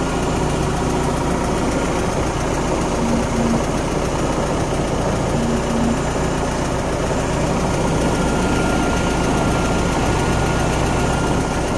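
Honda H22 four-cylinder engine, swapped into a Civic hatchback, idling steadily.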